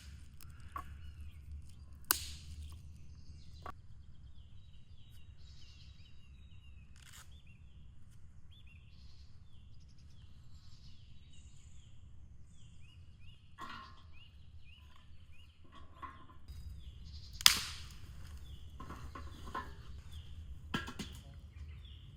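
Forest birdsong: a bird repeating short, quick chirps over a low steady rumble. Several sharp knocks and clicks come through it, the loudest about two-thirds of the way through.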